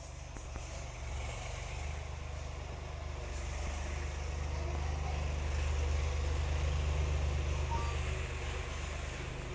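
Tractor engine running with a steady low drone, growing louder toward the middle and then easing slightly.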